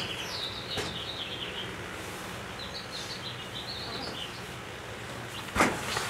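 Small birds chirping in short twittering phrases, with one sharp click about five and a half seconds in.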